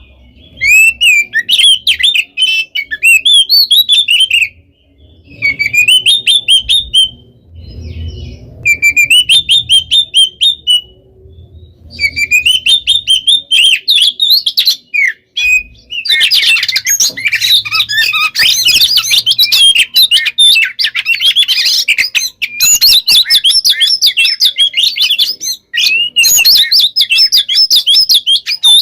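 Oriental magpie-robin (kacer) singing loud, rapid, varied phrases of whistles and trills. The song comes in bursts with short pauses at first, then runs on without a break from about halfway through.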